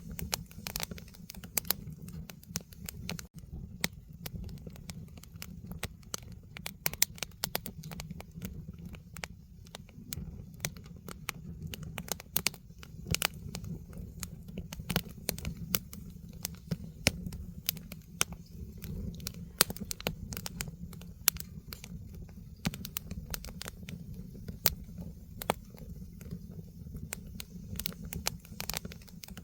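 Firewood burning in a fire pit, crackling with many irregular sharp pops and snaps over a steady low rumble.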